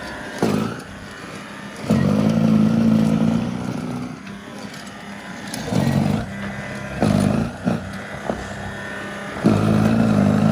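Battery-powered snowblower running through heavy, wet snow, its noise surging loudly several times as the snow loads it.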